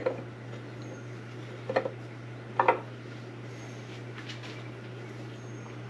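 Metal transmission parts clinking and knocking against each other as they are handled and fitted on the main shaft: a few sharp clanks, about one second in and twice more near the middle, over a steady low hum.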